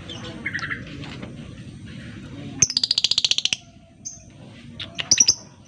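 Lovebird calling: a rapid rattling trill of about a dozen sharp, high notes lasting about a second, then a few short high chirps near the end.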